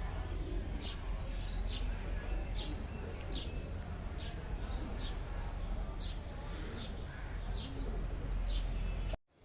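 A small bird chirping over and over, short high notes that sweep downward, a little more than one a second at uneven spacing, over a steady low rumble of outdoor background noise. The sound cuts off abruptly near the end.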